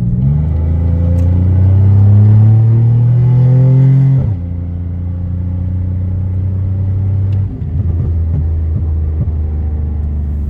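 Catless exhaust of a tuned Pontiac Grand Prix GT's 3.8-litre V6 under acceleration: the pitch climbs steadily for about four seconds, then drops suddenly and settles into a steady low drone, with a few brief crackles a little past the middle.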